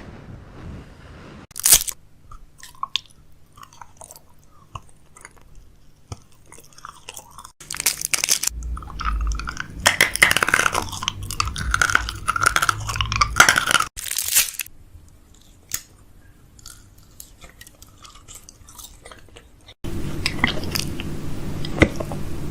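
Close-miked chewing and crunching of food, with scattered sharp clicks and a loud, dense stretch of crunching through the middle.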